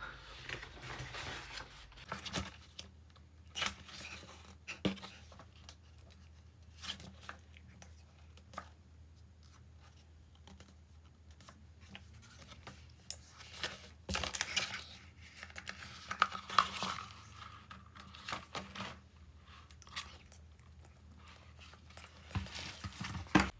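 Packaging being torn open and handled: scattered tearing, crinkling and light clicks, with a faint steady hum underneath.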